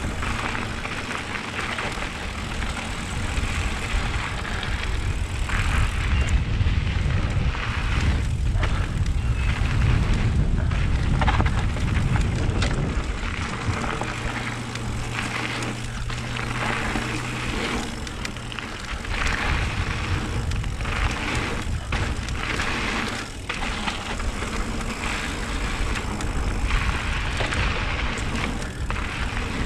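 Wind rushing over an action camera while a mountain bike rolls along a dirt trail, with the rumble and rattle of the tyres and bike over the rough ground, swelling and easing with speed.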